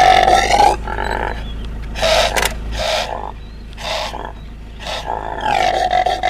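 Impala calling: a loud, held call at the start, a string of shorter calls, and another long call from about five and a half seconds in.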